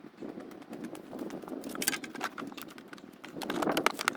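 Rustling and clicking of things being handled and shifted by hand, with denser bursts of clatter about two seconds in and again near the end.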